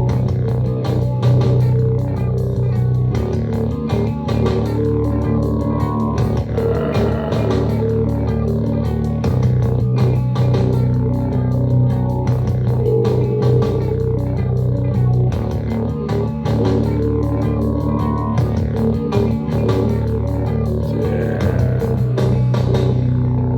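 Instrumental rock music with guitars and bass guitar, bass notes changing every few seconds over a steady beat.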